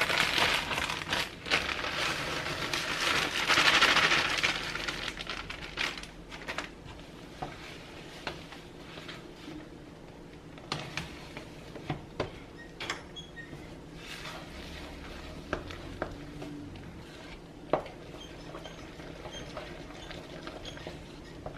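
Spoon stirring and scraping in a pot of melting marshmallow, butter, peanut butter and honey on the stove, busiest for the first six seconds or so, then scattered light clinks and knocks against the pot.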